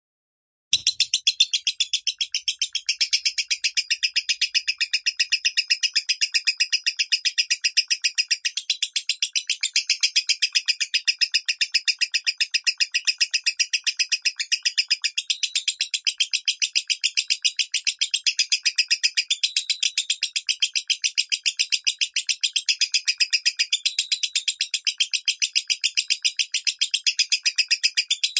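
Lovebird singing in the 'minor' voice: a long, unbroken run of rapid, evenly repeated high-pitched chirps that starts suddenly about a second in and keeps going without a break.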